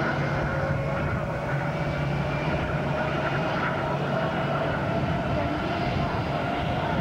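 Airbus A320 jet engines running steadily, a constant rush of engine noise with a steady whine over it.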